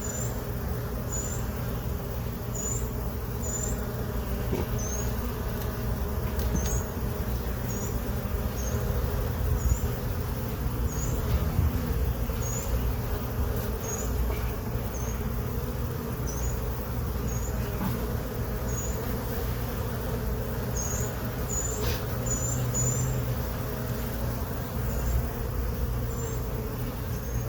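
A honey bee colony in an open hive box buzzing steadily, a dense, even drone of many bees while the brood frames are out for inspection.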